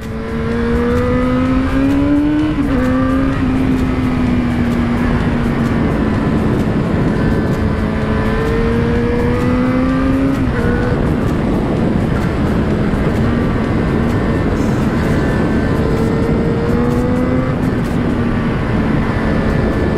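Yamaha XJ6's 600 cc inline-four engine running under way through heavy wind rush, its pitch climbing slowly and dropping back a few times as the throttle and gears change.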